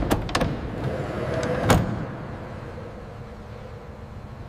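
Several sharp mechanical clunks within the first two seconds, then a steady rolling rumble that slowly fades, like a sliding door or cargo being moved.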